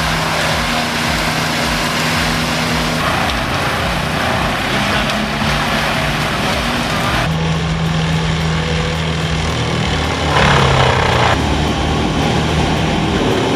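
The large diesel engine of a heavy machine running steadily under a loud, dense mechanical noise. The character of the sound changes abruptly twice, and a louder burst of noise comes about ten seconds in.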